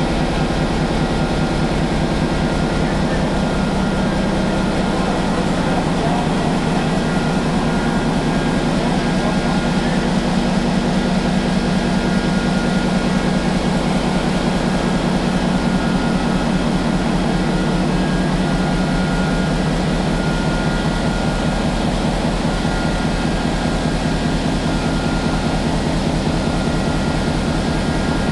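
MaK medium-speed marine diesel engine running steadily on a ferry: a loud, even low drone with a fast regular firing beat.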